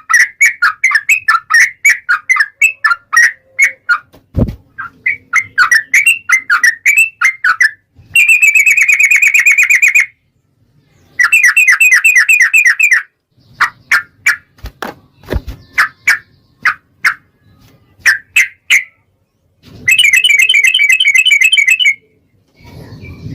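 Sooty-headed bulbul (trucukan) singing: rapid strings of chattering notes, interrupted three times by long, dense trills of about two seconds each, with short pauses between phrases.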